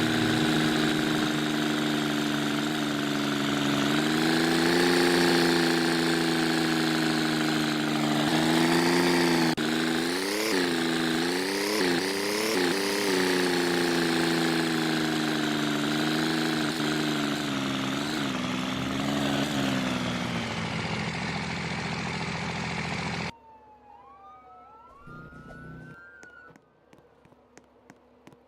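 An engine running, its pitch wavering up and down and rising in quick surges, then cutting off abruptly about 23 seconds in. A quieter stretch with faint clicks follows.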